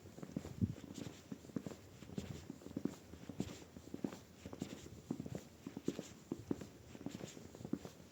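Footsteps in snow at a steady walking pace, about two soft crunching steps a second.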